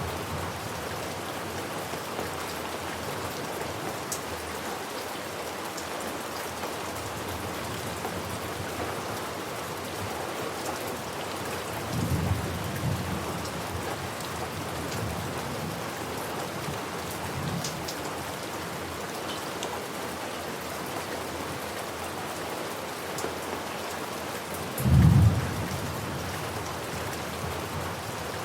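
Steady rain falling, with low thunder rumbling twice: a rumble a little before the middle and a louder, shorter one near the end.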